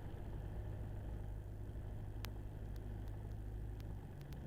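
Jabiru light aircraft engine idling on the ground: a steady low hum with a faint click now and then.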